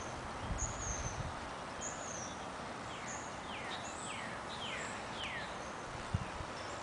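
Wild birds calling over a steady outdoor hiss: short high chirps, then a run of about five whistles, each falling in pitch, midway through. A few soft low thumps, the loudest near the end.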